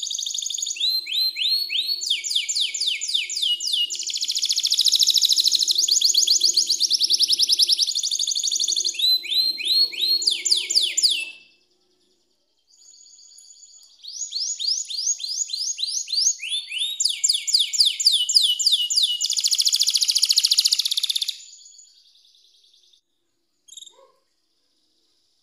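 Canary singing: long bouts of rapid, evenly repeated trill notes that shift from one phrase to the next. It sings twice, with a short pause about halfway through.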